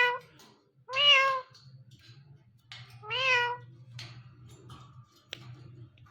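Indian ringneck parrot imitating a cat's meow: three meows, one ending right at the start, one about a second in and one about three seconds in. A faint low hum and a few light clicks follow.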